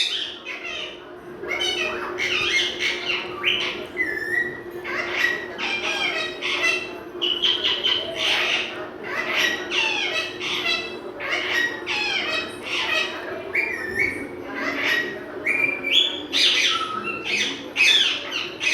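Pet parrot chattering, squawking and whistling in a rapid string of short calls, several gliding up or down in pitch. A steady low hum runs underneath.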